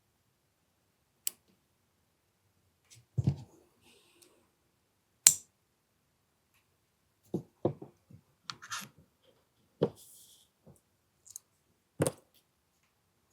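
Irregular sharp clicks and knocks of small airsoft pistol parts being handled and fitted during hammer-housing work, about a dozen over the stretch, the loudest about five seconds in.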